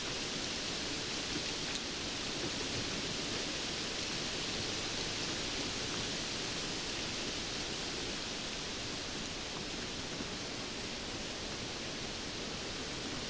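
Steady, even rain noise with faint scattered ticks of drops, strongest in the hiss, with no change in level.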